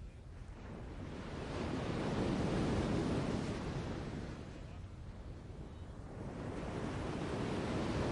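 Sea waves washing onto a shore, swelling and receding twice: once peaking about three seconds in, then building again near the end.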